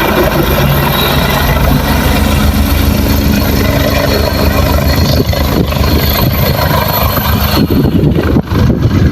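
A helicopter running close by, a steady engine and rotor drone with a constant whine. About seven and a half seconds in, the steady tones drop away and gusty wind buffets the microphone.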